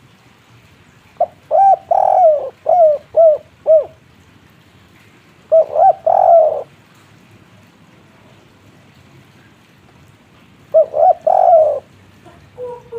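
Spotted dove (tekukur) cooing: three phrases of several coos each, spaced a few seconds apart, the first phrase the longest. A fainter run of short coo notes starts near the end.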